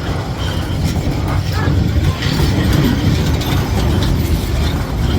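A train passing close by, a loud low rumble with scattered clacks.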